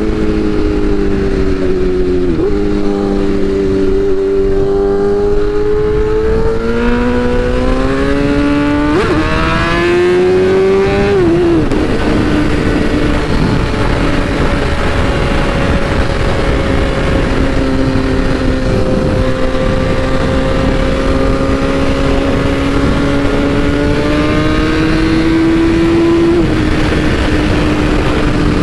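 BMW S1000RR's inline-four engine accelerating hard, its pitch climbing and dropping back at each upshift through the first dozen seconds. It then settles into steady cruising with a slow rise and one more upshift near the end, over wind rush.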